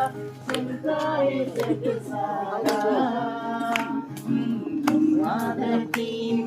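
A group of voices singing a Hindi Christian worship song in unison, with sharp beats in time underneath.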